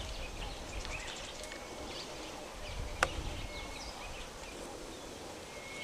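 Bush ambience of many small bird chirps and squeaks mixed with insect buzzing and trilling, over a low rumble. A single sharp click comes about three seconds in.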